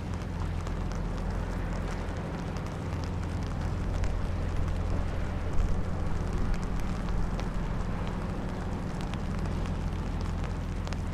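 Steady low diesel drone of a river sand boat's engine, mixed with wind rumble and scattered small ticks of light rain.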